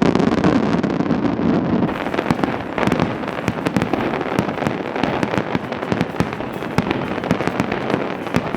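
Fireworks display: a continuous dense crackle of many sharp pops and bangs over a steady rumble.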